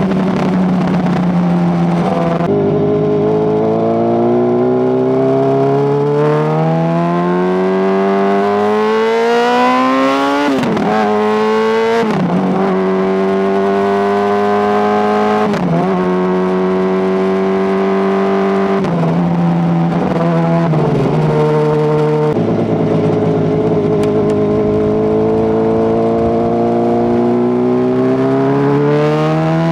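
Honda CBR600RR's inline-four engine and exhaust, close to the mic, pulling up through the gears. The revs climb and drop at each shift several times, hold steady for a few seconds in the middle, fall back, then climb again near the end.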